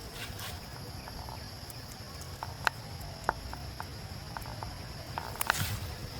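Steady high-pitched insect drone with scattered sharp clicks and taps, the loudest about halfway through, and a brief rustle near the end.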